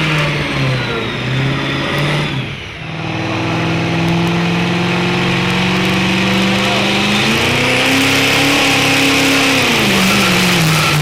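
Diesel truck engine running hard under load while pulling a sled, its pitch dropping about a second in, dipping briefly between two and three seconds, then holding steady before climbing around eight seconds and falling back near the end.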